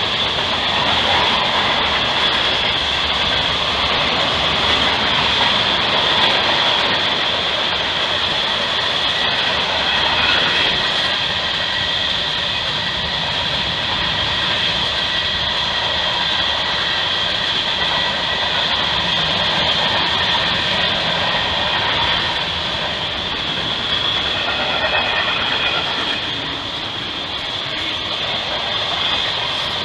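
Freight train cars rolling past on the rails: a steady, continuous rolling noise with a high-pitched steady tone over it, easing slightly near the end.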